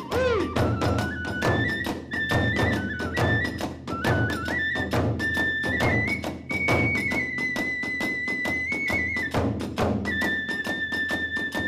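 Hiroshima kagura hayashi: a bamboo transverse flute plays a high, stepping melody over fast, steady beats of drums and small hand cymbals.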